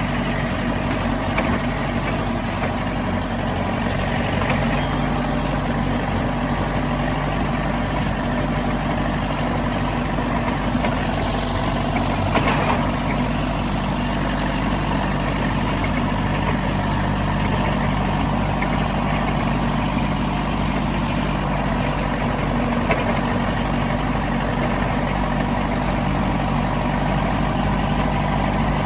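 Heavy vehicle engine idling steadily, with one brief sharper sound about halfway through.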